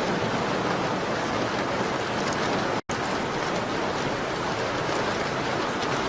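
Steady rain pattering on a window, an even wash of noise with faint scattered ticks. The sound cuts out completely for an instant a little under halfway through.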